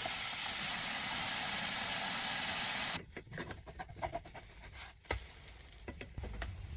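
A steady hiss that cuts off abruptly about three seconds in, followed by a few faint clicks and small knocks.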